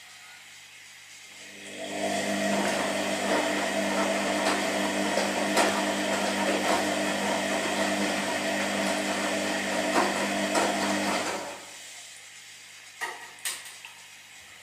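Washing machine motor driving the drum through one burst of the wash cycle: it starts up about two seconds in, runs with a steady whir and light rattling, then stops. Two knocks follow near the end.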